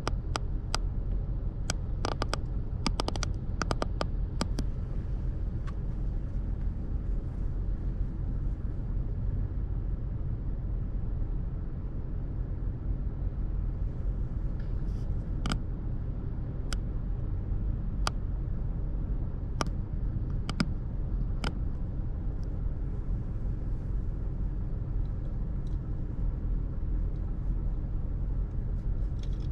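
Steady low rumble of road traffic on a busy city street. Sharp clicks come in a quick cluster in the first few seconds, with a few more scattered later.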